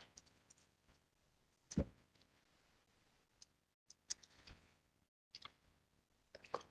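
Faint, scattered clicks and knocks with one louder thump about two seconds in. The sound briefly cuts out to dead silence a couple of times.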